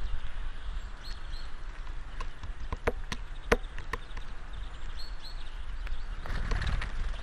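Great spotted woodpecker pecking at a bird feeder: irregular sharp taps, several close together in the middle, with a few short high bird calls and a low rumble of wind on the microphone near the end.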